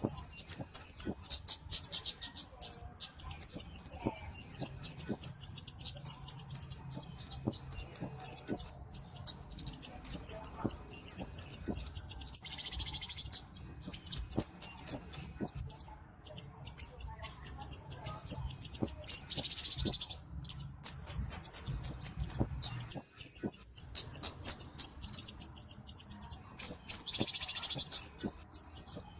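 Kemade cabe-cabean flowerpecker singing: runs of rapid, high-pitched twittering chirps in bursts separated by short breaks. Three times, about 13, 20 and 27 seconds in, a short hissing rasp joins the song.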